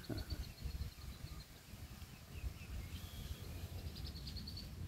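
Quiet outdoor wetland ambience: a faint, fast, high trill from a distant bird, heard in the first second and again about four seconds in, over a low steady rumble of wind.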